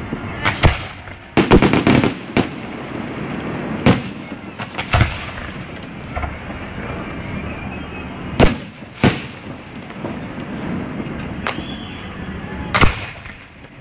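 Aerial fireworks bursting in a finale: sharp bangs at irregular intervals, with a quick run of several bangs about a second and a half in and single loud reports scattered through the rest.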